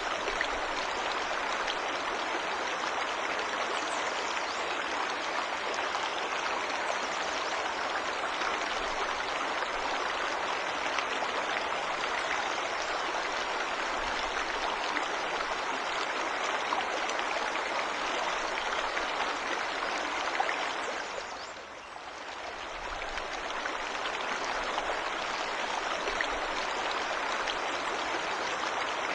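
Steady rushing and splashing of a forest waterfall. The level dips briefly about three-quarters of the way through, then returns to the same even rush.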